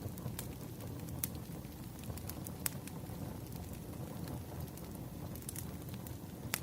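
Firewood burning: a steady low rush of flame with irregular sharp crackles and pops scattered through it.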